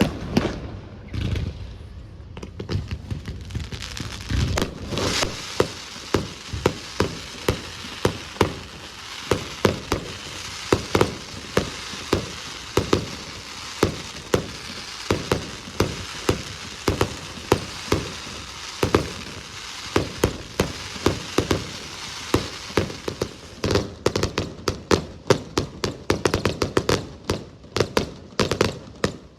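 Aerial fireworks bursting in rapid succession, several sharp reports a second, over a continuous crackle for most of the stretch. Near the end the crackle thins and separate, deeper booms stand out.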